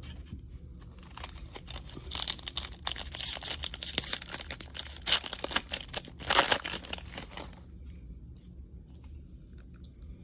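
Foil wrapper of a trading-card pack being torn open and crinkled, a run of crackling that starts about a second in and dies down about two and a half seconds before the end, leaving only faint handling sounds.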